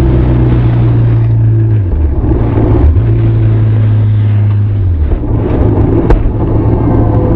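Benelli TRK 502's parallel-twin engine and exhaust running steadily on the move; the engine note breaks and picks up again about two seconds in and again about five seconds in, with a single sharp click about six seconds in.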